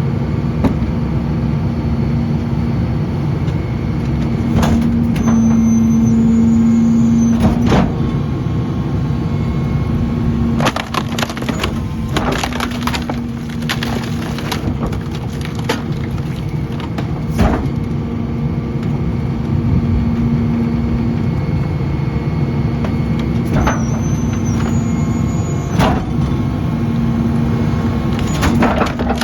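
McNeilus rear-loader garbage truck's hydraulic packer crushing a couch: the engine runs with a steady hum to drive the hydraulics while the couch's wooden frame cracks and splinters in repeated sharp snaps.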